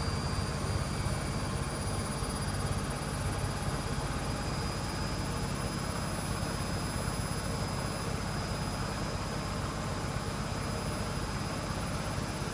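Blomberg WMI7462W20 integrated washing machine spinning a load of towels: a steady motor hum and rushing drum, with a high whine that creeps slightly up in pitch as the spin builds, the drum at about 800 rpm.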